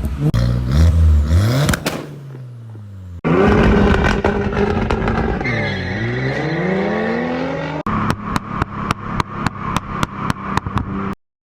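A performance car engine revving in short edited clips, its pitch rising and falling, with a dip and climb about six seconds in. It ends in a fast, even stutter of sharp pops, about four a second, then cuts off.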